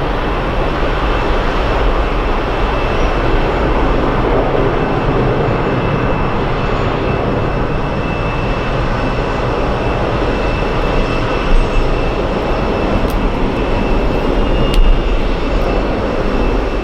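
Jet airliner's engines passing, a loud steady rush of engine noise with a faint high whine over it.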